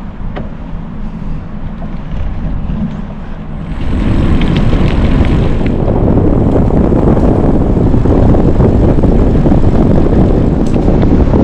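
Wind rushing over the microphone of a camera on a moving bicycle, a moderate rumble at first that jumps sharply louder about four seconds in and stays loud.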